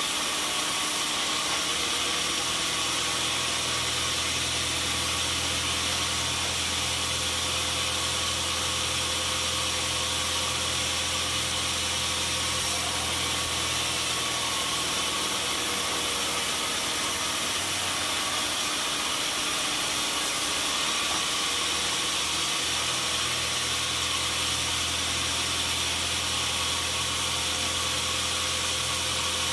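Sawmill machinery running steadily: a constant low motor hum with an even hiss over it, unchanging throughout.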